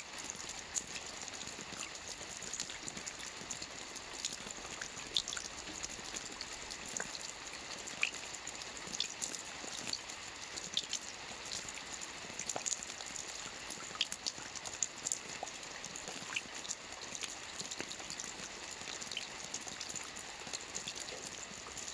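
Soft rain falling on a roof: a steady hiss of rain with many separate drops tapping at irregular moments.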